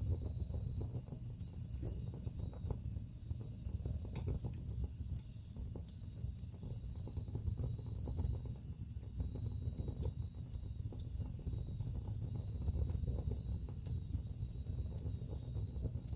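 Wood fire burning in a fireplace: a steady low rumble of flames with scattered crackles and sharp pops from the burning logs.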